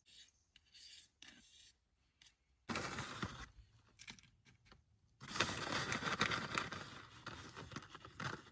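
Rustling and scraping handling noises in several bursts, the longest and loudest filling the last three seconds.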